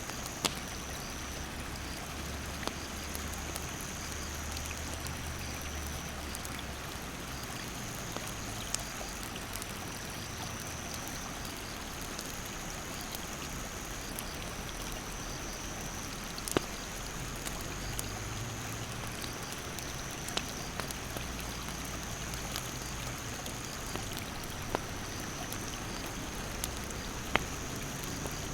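Wood campfire crackling, with a sharp pop every few seconds, over the steady rush of a stream's rapids. A steady high insect drone swells and fades throughout.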